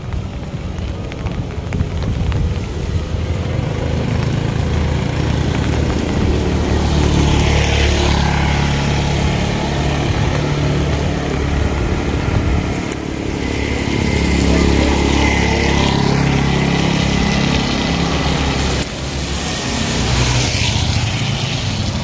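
Motor vehicle engines running close by, rising and falling as vehicles pass several times, with a swell of hiss each time one goes by.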